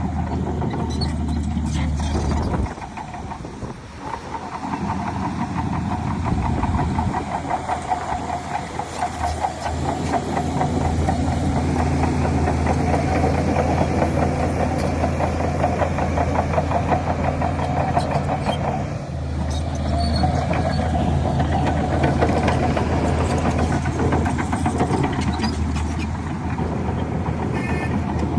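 Diesel engine of heavy earthmoving machinery running continuously. The level drops briefly about three seconds in, then builds back up and holds steady, with a short dip later on.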